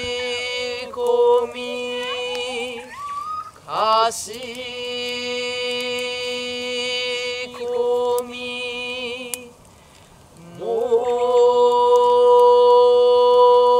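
A voice chanting long held notes on one pitch. It slides up into the note twice and drops briefly for a breath before the last long note.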